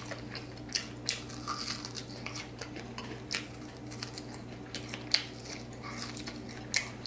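Crispy fried pork spare rib with a cornstarch crust being bitten and chewed up close, many small irregular crunches and crackles.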